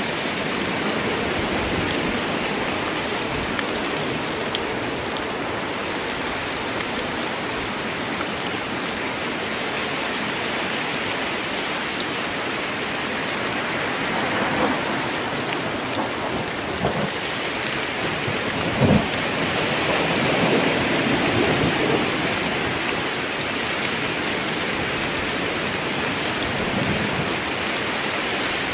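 Steady rain falling in a forest, an even hiss of many drops. A few louder single knocks or heavy drops stand out around the middle, followed by a brief swell.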